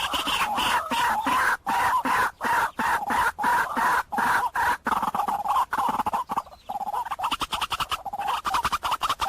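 White-breasted waterhen calling: a fast, continuous string of repeated pulsed notes, broken by brief pauses and a quieter stretch about six to eight seconds in. This is a bird-lure recording of the species' call.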